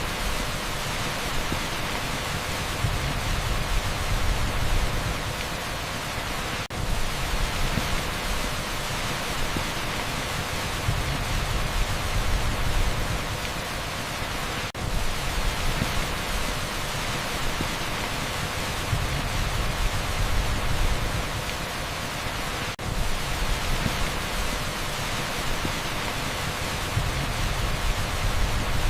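Heavy torrential rain on a street: a dense, even downpour hiss with a low rumble swelling and fading every few seconds. There is a brief dip in level about every eight seconds.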